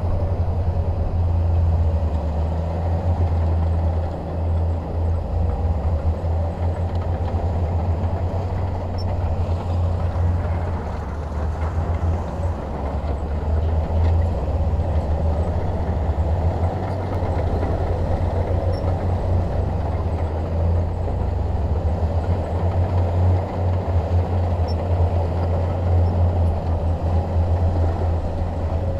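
Shantui DH17 bulldozer's diesel engine running steadily with a deep, continuous drone while the machine works.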